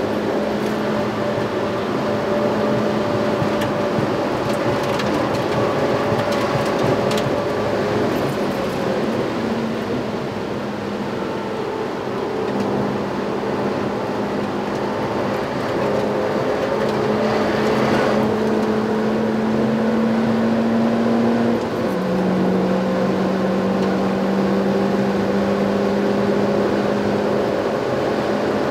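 Mitsubishi Evo IX MR's turbocharged 2.0-litre four-cylinder engine running hard on track, heard from inside the cabin over steady road and wind noise; its pitch drops suddenly about three-quarters of the way through.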